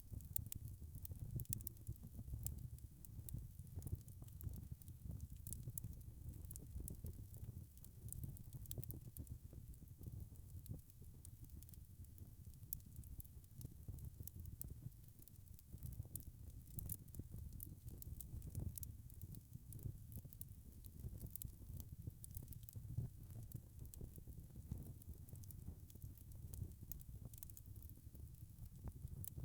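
Wood fire burning in a fireplace: many small crackles and pops over a low, steady rumble of the flames.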